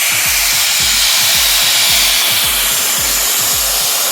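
Vacuum cleaner running with a steady, loud hiss, over background music with a regular beat that stops near the end.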